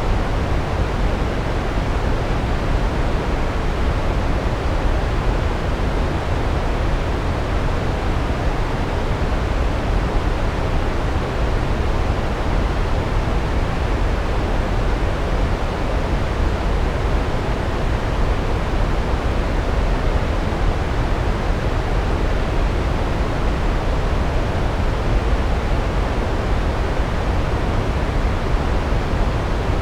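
Large waterfall pouring steadily, a constant, even rush of falling water heaviest in the low end, with no breaks or changes.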